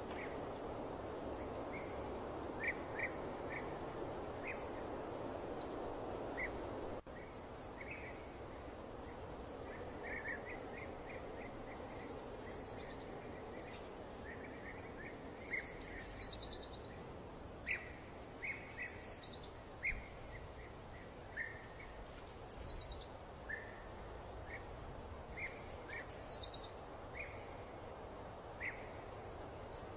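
Birds chirping and singing over a steady background hiss, with a high call that slides downward repeated about every three seconds in the second half. The background hiss drops noticeably about a quarter of the way in.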